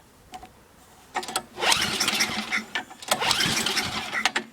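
1997 MTD Yard Machines snowblower's small engine being restarted: after about a second of quiet it cranks with a short burst, then two longer uneven surges as it tries to catch.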